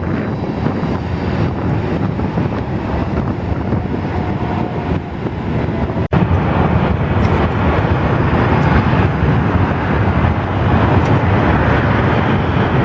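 Airbus A380's jet engines running with a steady, loud noise, heaviest in the low range, and wind on the microphone. About six seconds in the sound drops out for an instant and comes back a little louder.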